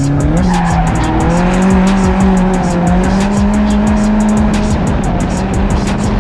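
Drift car engine running at high revs, its pitch climbing, dipping and climbing again as the throttle works, with tyres squealing.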